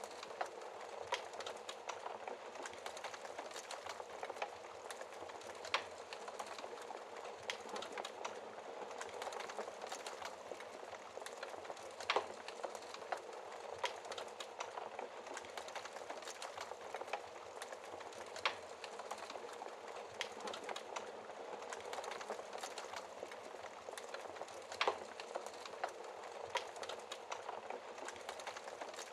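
Burning logs crackling, with frequent small snaps and a few louder pops, over a steady hiss of rain.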